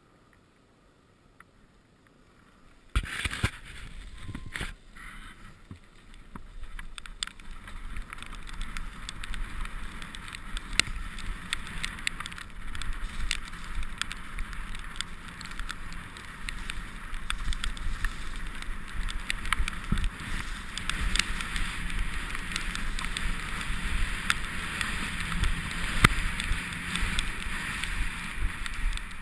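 Mountain bike riding on a wet, muddy trail: tyre noise over mud with frequent rattling clicks and knocks from the bike, and wind on the microphone. Nearly quiet at first; the riding noise starts suddenly about three seconds in and builds a little toward the end.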